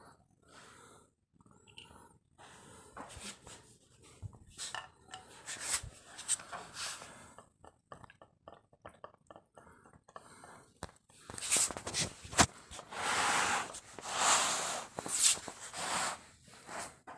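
A cat making breathy noise bursts, several of them in the second half, among scattered clicks and knocks.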